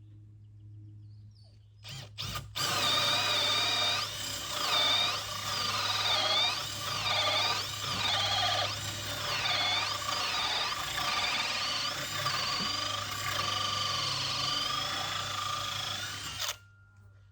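Electric drill with a hole saw boring into wood. Two short trigger blips come about two seconds in, then the drill runs steadily for about fourteen seconds, its motor pitch dipping and recovering again and again as the saw bites, before it cuts off suddenly near the end.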